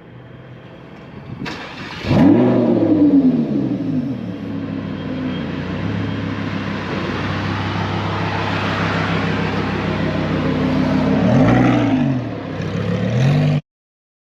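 Supercar engine revving up sharply about two seconds in, then running steadily, with another short rev near the end. The sound cuts off abruptly.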